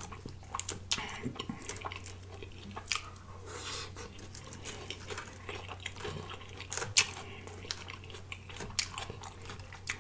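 Close-miked chewing of food, with wet smacks and clicks from the mouth, the sharpest about seven seconds in, over a low steady hum.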